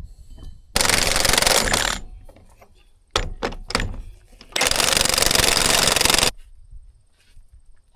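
Impact wrench hammering in two bursts of one to two seconds each, with a few sharp metal clicks between them, as bolts are run down on the part being fitted.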